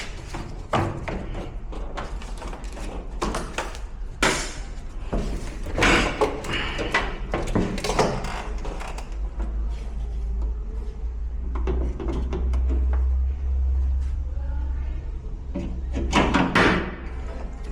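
Repeated knocks and bangs of washer parts being handled and struck during disassembly, with a steady low hum from about ten to fifteen seconds in.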